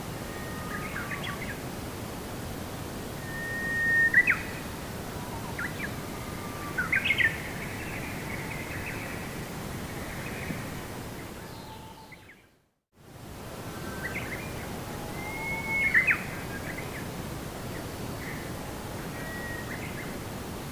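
Birds chirping and giving short whistled calls over a steady background hiss of outdoor ambience. The whole track fades out to silence about twelve seconds in and fades back up a second later.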